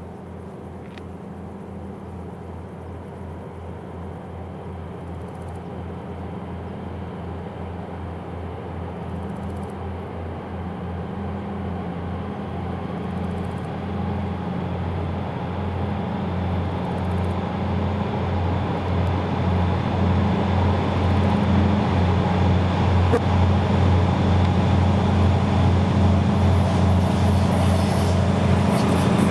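Twin-section 2TE10U diesel locomotive's 10D100 two-stroke diesel engines running with a pulsing low drone as the locomotive approaches, growing steadily louder.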